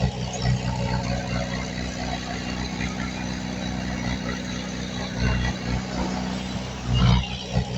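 Heavy diesel engine of earthmoving machinery running steadily, with a louder surge near the end.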